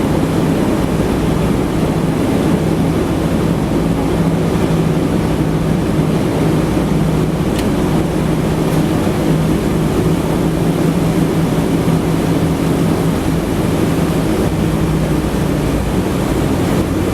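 A steady motor drone over a continuous rushing noise.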